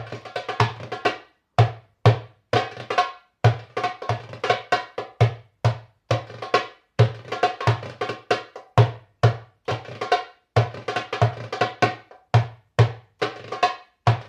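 Drumming: a fast rhythm mixing deep bass strokes with sharper, higher strokes, broken by a few brief pauses.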